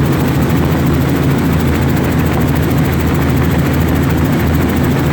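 Helicopter engine and rotor noise heard from inside the cabin during flight: a loud, steady drone with a low hum.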